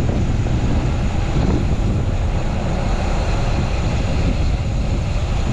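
Strong gusty wind blowing over a chest-mounted camera's microphone on a moving bicycle: a steady, loud, low rumble of wind noise.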